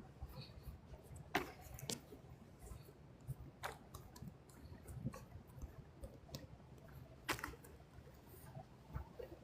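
Footsteps on a leaf-covered trail: faint low thuds with a few sharp, irregularly spaced clicks and crackles.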